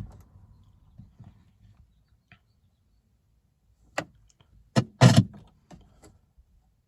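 Sharp clicks and knocks in the cab of a 1981 Isuzu Pup diesel pickup while the glow plugs preheat before cranking: one click right at the start, then a cluster of clicks about four to five seconds in.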